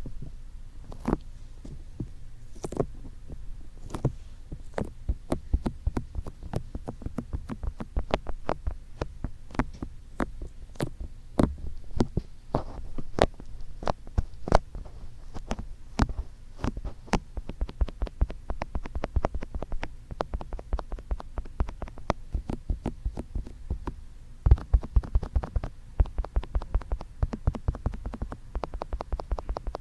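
Fingertips tapping on microphone ears for ASMR ear tapping, a patter of soft taps with a low thud under each. The taps start sparse, grow quicker and denser, and turn into a louder, faster flurry about 24 seconds in.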